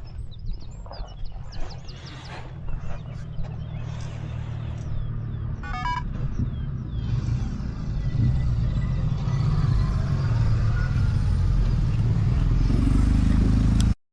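BMW F900 XR's parallel-twin engine running, getting louder from about halfway through, then cutting off abruptly just before the end.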